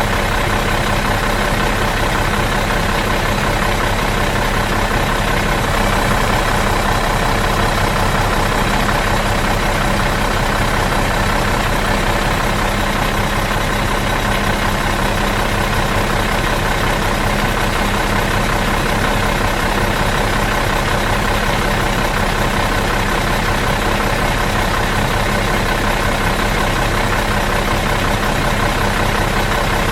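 Bus diesel engine idling steadily out of gear, an even, unchanging run.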